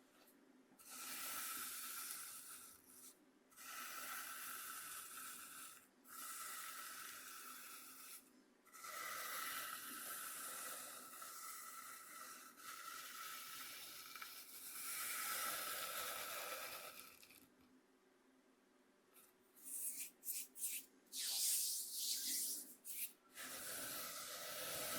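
Coarse cornmeal scraped across a bamboo cutting board: several long, soft, scratchy strokes with short breaks between them, a brief pause, then a flurry of short quick scrapes near the end.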